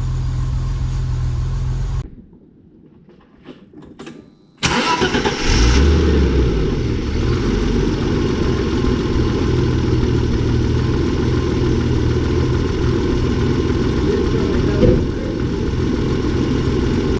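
A steady low rumble cuts off about two seconds in. After a quiet pause with faint clicks, the BMW E30's engine starts suddenly about four and a half seconds in, flares briefly, then settles into a steady idle.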